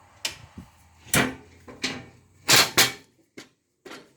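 Cabinet doors and drawers being opened and shut, giving about six sharp knocks and clatters. The loudest are a close pair of bangs about two and a half seconds in.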